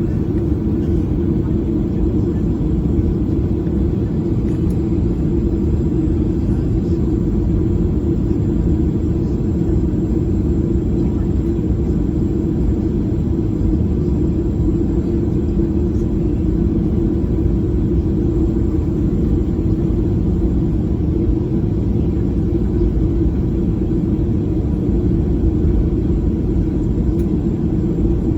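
Boeing 737 cabin noise in flight: a steady, even rumble of engines and airflow, with a faint steady tone above it.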